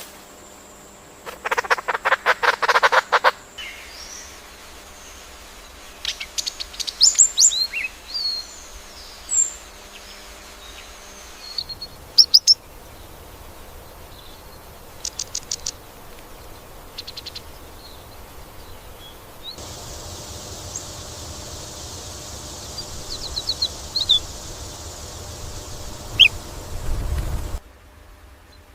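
Forest birds calling: scattered short chirps, whistles and quick trills, opening with a loud rapid rattling call. The background hiss changes abruptly twice, and a low rumble rises near the end.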